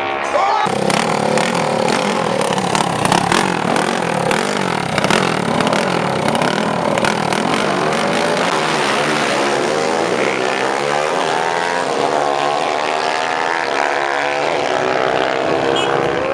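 Drag-racing motorcycle engines revving and accelerating, several engines at once with their pitch rising and falling. Sharp cracks come through mostly in the first half.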